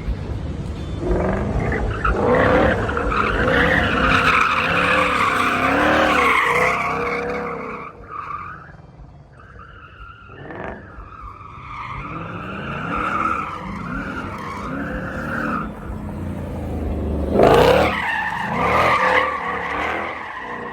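Car tyres squealing in long, wavering squeals over a running engine. The squeals ease off for a few seconds midway and return loudly near the end.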